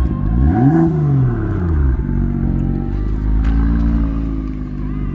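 BMW M2's turbocharged straight-six blipped once from idle, the revs rising and falling back over about a second and a half, then settling into a steady idle heard at the exhaust.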